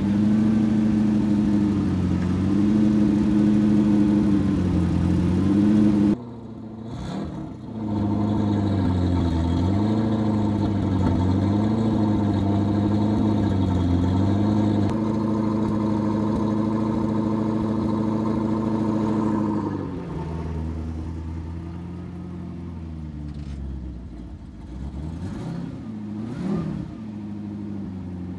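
Zenvo ST1's V8 engine running, its pitch gently rising and falling with light throttle. It gets quieter about 20 seconds in, with a couple of short revs near the end.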